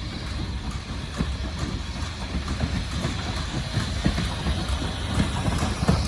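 Passenger train rolling past, a low rumble with irregular clicks and knocks of wheels over the rail joints, growing slightly louder.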